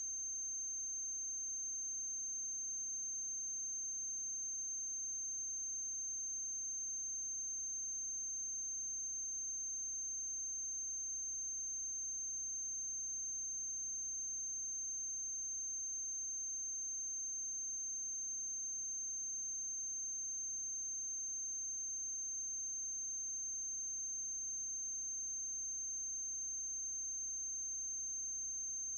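A steady high-pitched electronic whine with a faint low electrical hum under it, unchanging throughout: noise on the audio track of a silent film transfer, with no sound from the scenes themselves.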